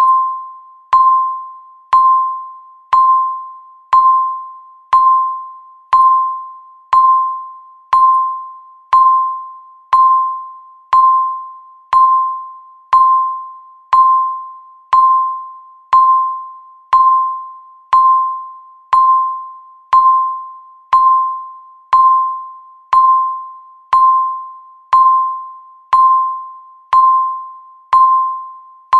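Countdown timer's electronic beep marking each second: one clear mid-pitched chime a second, each struck sharply and fading away before the next.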